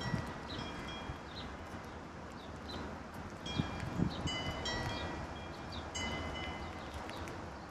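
Garden birds calling and chirping over a steady outdoor hiss, with several short clusters of bright ringing tones. A few low gusts of wind hit the microphone, near the start and again about three and a half to four seconds in.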